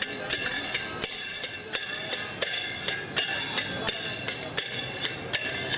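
Temple hand bell rung steadily during puja worship, about three metallic strikes a second, each ringing on.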